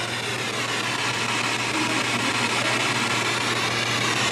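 Spirit box (radio scanning device) sweeping through the radio band, giving a steady hiss of static over a low hum.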